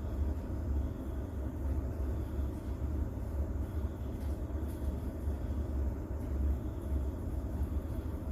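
Steady, deep rumbling noise of a rain-and-thunder sleep soundscape, mostly bass with little hiss on top and no sharp cracks or drops standing out.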